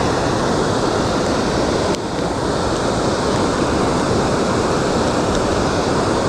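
Steady rush of a waterfall: falling water making an even, loud, unbroken roar.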